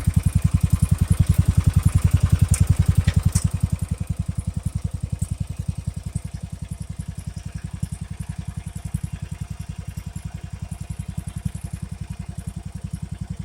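Riding lawn mower engine running with a steady, low pulsing beat, growing quieter about four seconds in.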